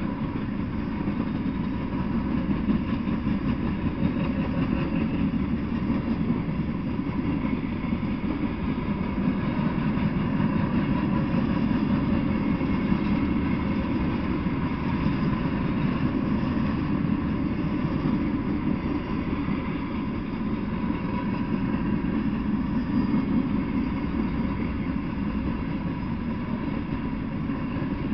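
A freight train's open-top hopper cars rolling past at a steady speed, their wheels on the rails making a continuous low rumble.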